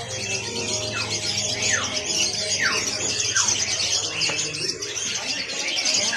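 Many caged birds chirping and calling at once in a dense, continuous chatter, with four short falling whistles about a second apart in the first half.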